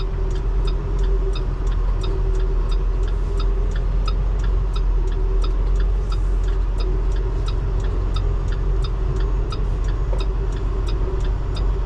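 Semi-truck diesel engine running with a steady low rumble, heard inside the cab, while the turn-signal flasher ticks evenly about two and a half times a second.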